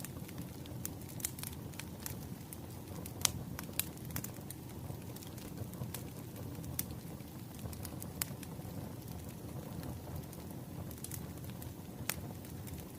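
Wood fire burning: a steady low rumble with irregular sharp crackles and pops from the burning logs, one pop a few seconds in standing out above the rest.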